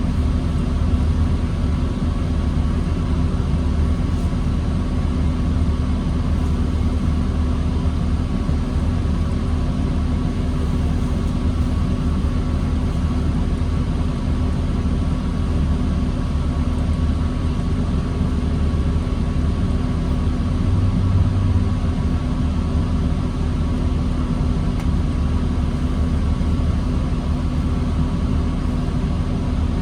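New Flyer D40LFR diesel transit bus engine running steadily, a low rumble with no revving. There is a brief low swell about two-thirds of the way through.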